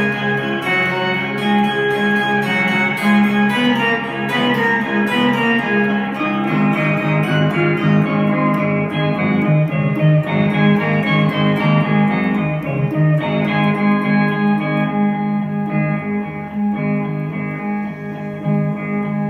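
Electric guitar played through an Ammoon Octa pedal, held layered notes built into an ambient soundscape. The bright upper shimmer fades away about three-quarters of the way through.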